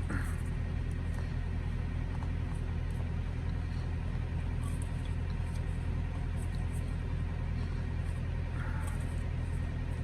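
Steady low rumble of an idling truck engine heard inside the cab, with a few faint light clicks from the soap sample being set into a shaving bowl.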